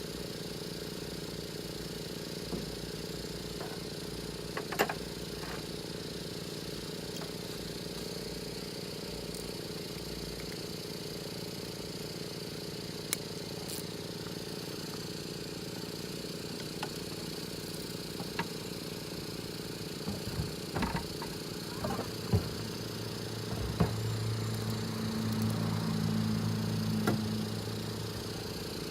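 A steady mechanical hum, like a running motor, with scattered light clicks and knocks. About 24 seconds in, a louder low hum comes in for about three seconds, then drops away.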